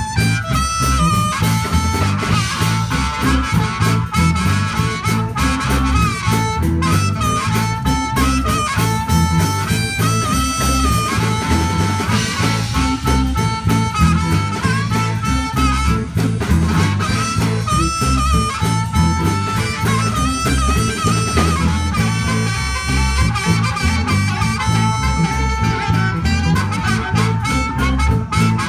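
Live blues band playing an instrumental break: a lead line of held, bending notes over steady bass and drums, with no vocals.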